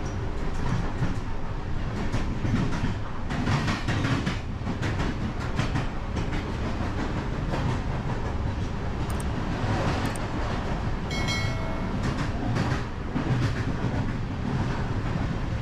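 Passenger train running on the rails, heard from its rear coach: a steady rumble with repeated wheel clicks over rail joints. A short high pitched tone sounds about eleven seconds in.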